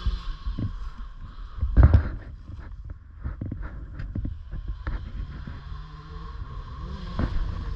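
Dirt bike engine revving at a distance, its pitch rising and falling, with knocks and rustling on the microphone and a loud low thump about two seconds in.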